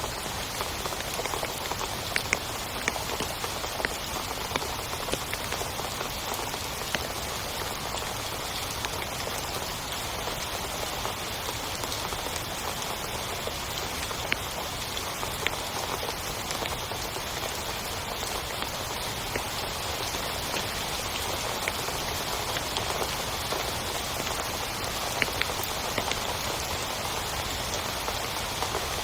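Heavy rain falling steadily on a tent, with sharp ticks of single drops scattered through it.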